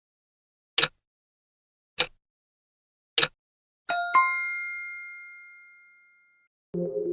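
Countdown sound effect: three sharp ticks about a second and a quarter apart, then a two-stroke bell ding that rings out and fades over about two seconds. Electronic music comes in near the end.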